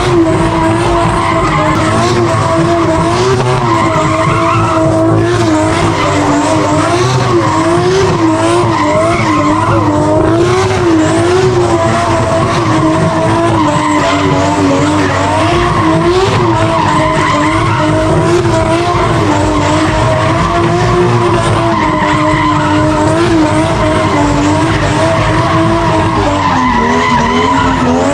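Drift car's engine held at high revs, its pitch wavering up and down and dropping near the end, with the tyres squealing as the car slides.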